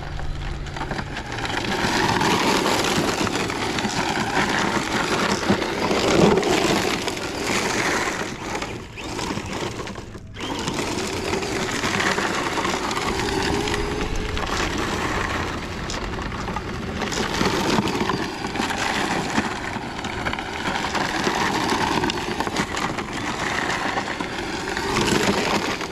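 Traxxas rally RC car driving over rough dirt and rocks: tyres and chassis crunching and rattling over the ground, with the electric motor's whine rising and falling as it speeds up and slows. The sound cuts out briefly about ten seconds in.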